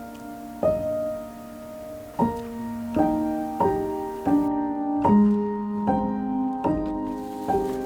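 Background piano music: a slow, gentle piece of chords struck about once a second, each left to ring and fade.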